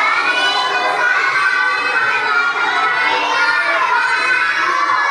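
A classroom of young children shouting together, many voices at once in a loud, sustained chorus.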